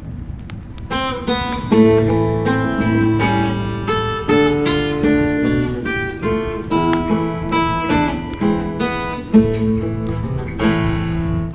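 Acoustic guitar playing the instrumental close of a Russian romance: a plucked melody over chords, coming in about a second in, with a fuller strummed chord near the end.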